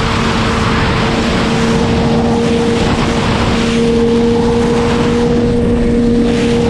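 Sportbike engine running at steady high revs under way, its pitch holding almost level, with heavy wind rush over the camera microphone.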